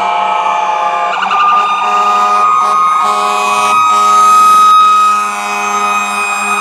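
Several fire apparatus sirens sounding at once: a long wailing tone that swells to its loudest past the middle, over quicker warbling sirens and a low steady drone.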